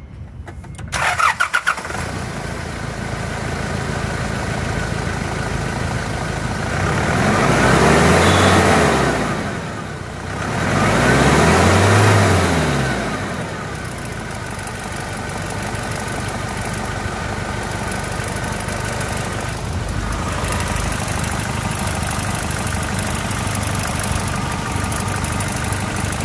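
2008 Nissan Navara's turbocharged diesel engine cranking and catching about a second in, then idling. It is revved up and let fall back twice in a row, about a third of the way through, then settles back to a steady idle.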